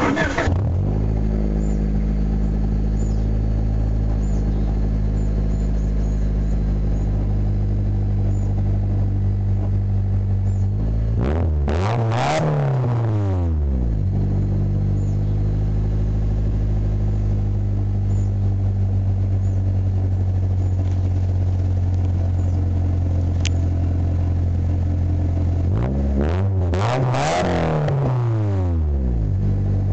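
Honda Civic EG's D16Z6 1.6-litre SOHC VTEC four-cylinder idling steadily through its exhaust, twice revved briefly, the pitch climbing and dropping back to idle.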